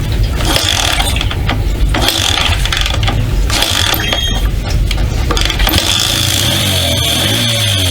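Honda Ape 50's air-cooled 49 cc single-cylinder four-stroke engine being kick-started with irregular mechanical clatter, then catching about six seconds in and running at a steady idle.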